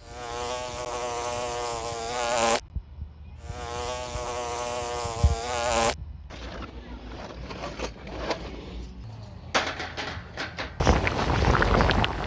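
A buzzing sound like a flying insect, twice, each about two and a half seconds long with a wavering pitch, followed by a quieter stretch of scattered crackles and knocks.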